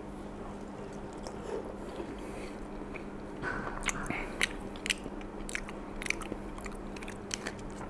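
A person chewing a mouthful of baked lasagna, with scattered small clicks and scrapes from about three seconds in as a plastic spoon digs into the foil tray; a faint steady hum underneath.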